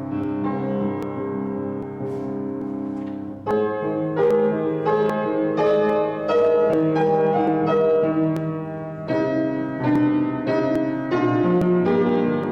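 Solo piano playing a slow, quiet piece: soft held chords at first, then about three and a half seconds in a louder passage of struck notes and chords.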